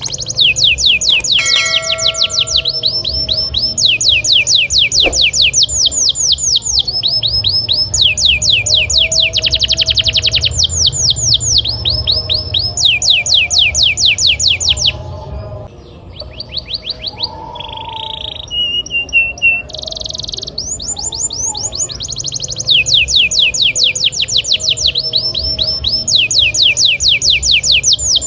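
Domestic canary singing long, rapid trills: runs of many fast, repeated downward-sweeping high notes, changing from one trill to the next. About halfway through the song drops briefly into a softer stretch of varied single notes before the fast trills resume.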